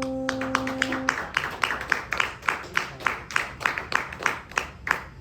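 Last acoustic guitar chord ringing out and cut off about a second in, overlapped and followed by a small audience clapping, with sharp individual claps.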